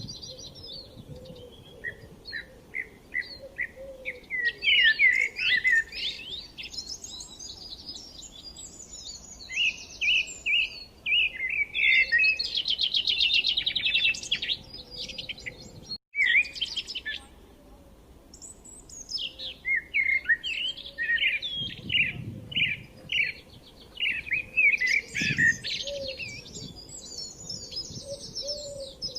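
Songbirds chirping and singing, with many overlapping short whistled notes and a fast trill about halfway through. The sound cuts out for an instant just after the midpoint, then the chirping carries on.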